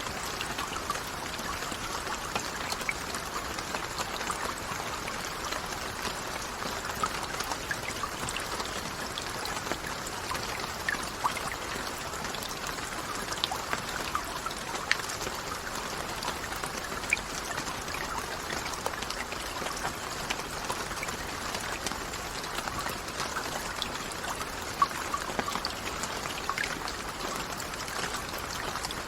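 Steady rain falling, with a constant hiss and many individual drops ticking and splashing close by.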